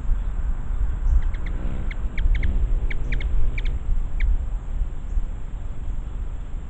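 Hummingbird chip notes: about a dozen short, sharp chips in quick runs between one and four seconds in, over a steady low rumble.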